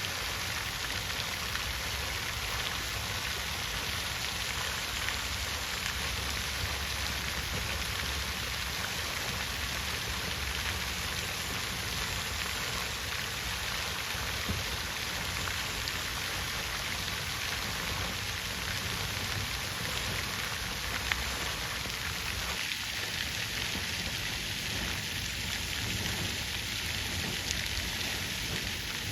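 Water fountain splashing steadily, falling water spattering into its basin.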